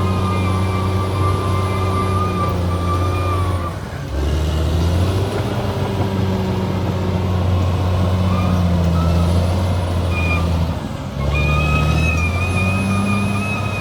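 Bulldozer's diesel engine running steadily with a constant high whine over it. The sound dips briefly twice, about 4 and 11 seconds in, and the engine's pitch shifts lower each time before settling again.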